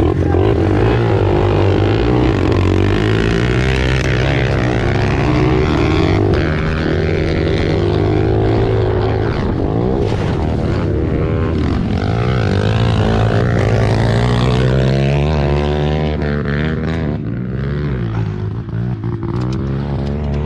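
Small four-stroke pit bike engines revving hard, their pitch rising and falling over and over with the throttle.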